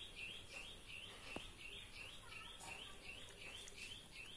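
A bird calling over and over, a short rising chirp repeated about two or three times a second, faint. A few small plastic clicks and taps come from a coin-cell battery tray being fitted with its battery and slid into a car-stereo remote.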